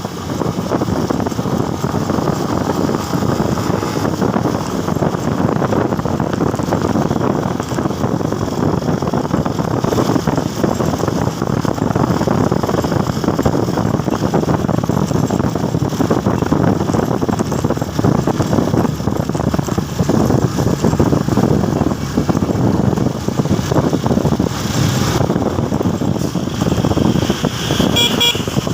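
Steady engine and road noise heard while riding a motorcycle in traffic. A short horn toots near the end.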